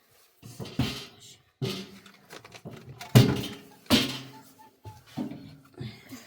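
Irregular knocks and thuds, about eight in six seconds, each with a short ring that dies away quickly. The loudest comes just after three seconds in.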